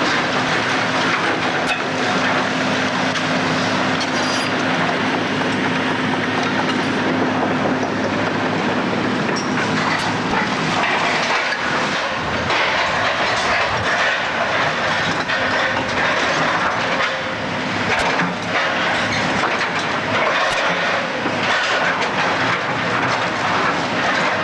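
Heavy demolition machinery running, with a steady engine note and continuous clatter and occasional sharp knocks.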